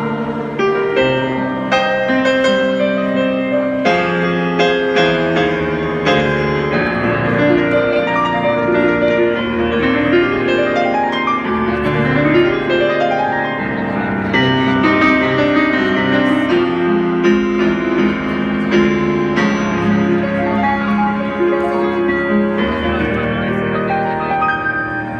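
Piano played live, a flowing melody over full chords, with two quick rising runs about ten and twelve seconds in.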